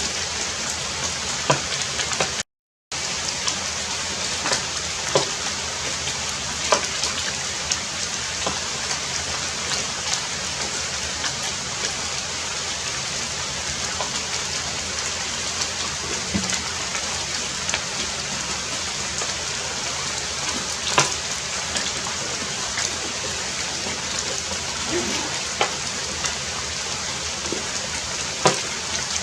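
Steady heavy rain, with occasional sharper drops striking close by. The sound cuts out completely for a moment about two and a half seconds in.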